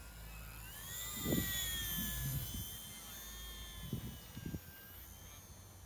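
Small electric model aeroplane motor whining, its pitch rising about a second in and then easing slowly, with wind buffeting the microphone in low thumps and rumble.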